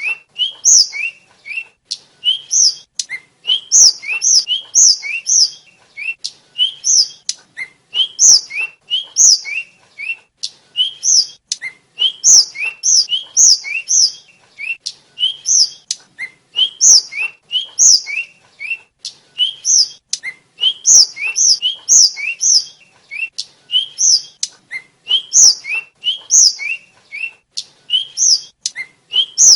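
A sikatan (tledekan/sulingan) flycatcher singing: a fast run of short, high, sweeping whistled notes, in quick phrases of several notes with brief pauses between them.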